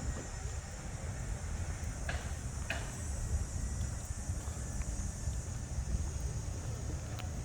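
Outdoor ambience: a steady low rumble, with a steady high hiss above it and a couple of short knocks a couple of seconds in.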